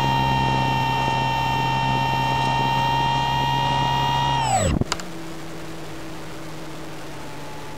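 An RC glider's electric motor and propeller whine steadily, heard from a camera on the plane. A little over four seconds in, the motor is cut and spins down fast, its pitch sliding to nothing, and a click follows. After that only the rush of air past the gliding plane is heard.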